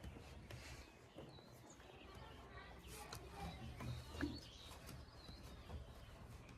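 Faint outdoor ambience: scattered bird chirps over a low background rumble, with a few light clicks.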